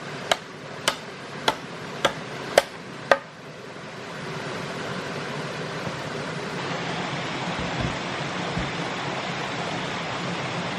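Six sharp knocks of a tool striking, evenly spaced a little under twice a second. They stop about three seconds in and give way to a steady rushing noise that grows louder.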